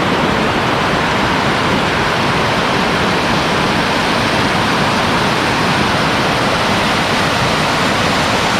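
Waterfall: water pouring over rocks in a loud, steady rush.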